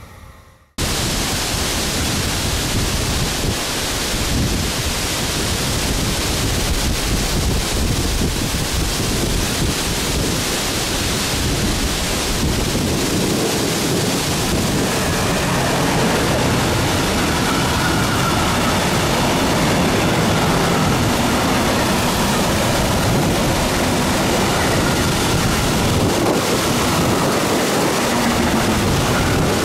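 A train rolling past close by: a loud, steady rush of wheels on rails that starts abruptly about a second in, with faint wavering whines over it in the second half.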